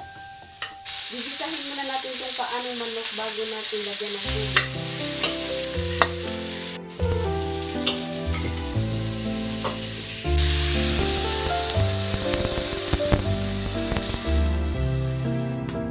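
Chicken feet sizzling in hot oil in a wok, stirred with a metal spatula that clicks and scrapes against the pan. The sizzle gets louder about ten seconds in as liquid is poured into the wok. Soft background music with keyboard notes and a bass line comes in about four seconds in.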